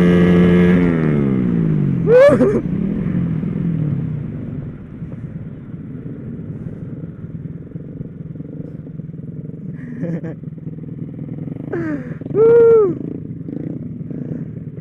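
Motorcycle engine running steadily at high revs, then falling in pitch about a second in as the throttle is closed, and running much quieter after that. A few short shouted calls cut in around two seconds, ten seconds and near the end.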